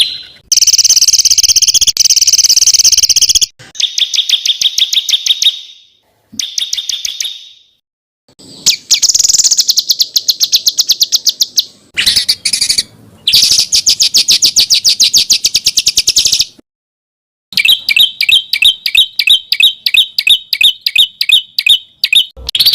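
Small songbirds giving fast, rough trills of rapidly repeated high notes: about seven separate bursts, each one to four seconds long, with short silent gaps between and a change of pitch from burst to burst. This is masteran material, rough rapid calls compiled for songbirds to copy.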